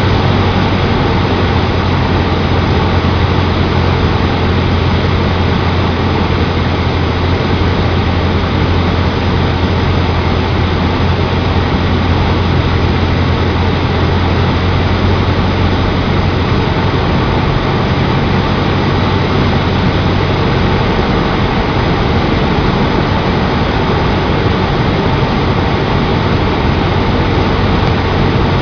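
Cessna 152 Aerobat's four-cylinder Lycoming engine and propeller running steadily under a loud rush of noise. The low hum of the engine weakens about two-thirds of the way through.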